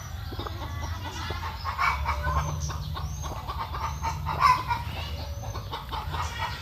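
Chickens clucking, with short clicks and high chirps over a steady low hum.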